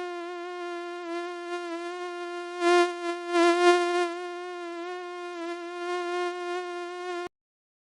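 Mosquito whine: a steady, thin buzzing tone that wavers slightly and swells louder a couple of times in the middle, then cuts off suddenly near the end.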